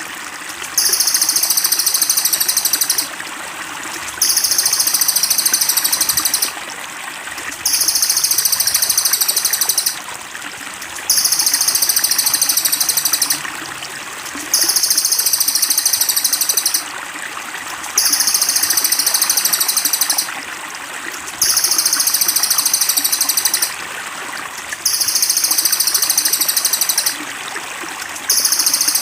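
Steady trickling water under a high, buzzing trill that repeats about every three and a half seconds, each trill lasting about two seconds. It is a looped masteran track of the kind played to train songbirds.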